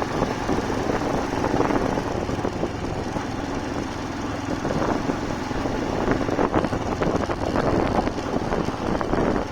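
Motorcycle engine running steadily while riding, under a constant rush of road noise.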